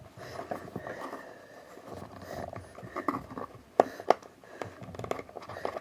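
Speaker box and its packaging being handled and opened: scraping and rustling, with a few sharp clicks, the loudest two close together about four seconds in.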